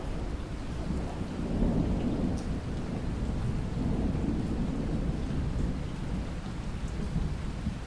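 Steady rain with a low rumble of thunder that swells and fades several times.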